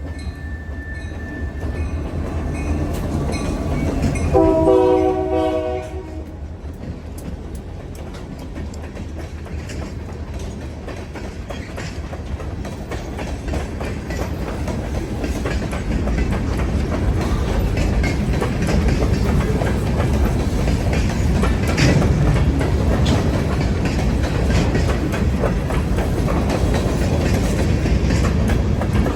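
Union Pacific local freight train: the locomotive horn sounds one short chord blast about four seconds in, then the train's rumble and wheel clicks over the rails build up and grow louder as it draws near and passes.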